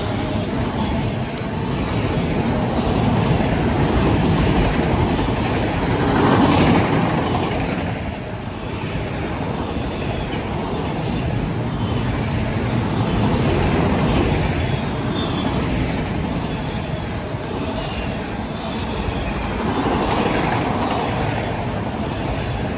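CSX freight train of autorack cars rolling past close by at speed: a steady rumble and rattle of steel wheels on the rails that swells and eases every several seconds as the cars go by.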